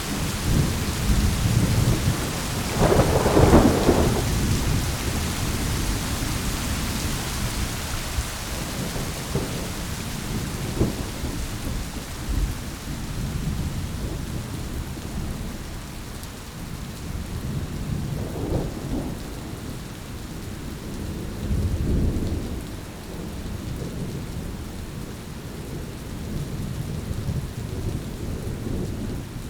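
Thunderstorm: steady rain with rolling thunder, the loudest rumble about three seconds in and fainter rumbles later on.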